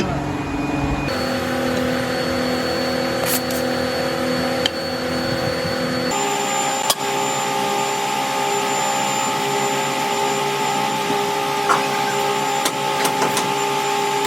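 Steady hum of factory machinery running, with a few light clicks. The pitch of the hum changes suddenly about a second in and again about six seconds in.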